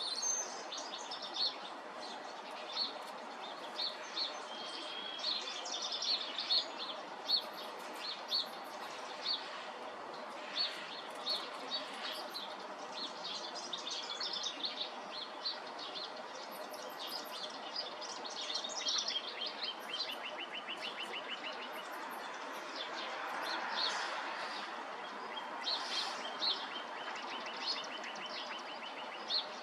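A robin singing a varied song of short, high, fluty phrases, with other bird calls including a fast trill twice, over a steady background hiss.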